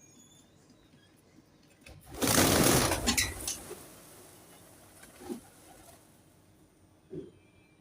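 Pigeon wings clattering in a rapid burst about a second long, a little over two seconds in, then fading; two short, soft low sounds follow later.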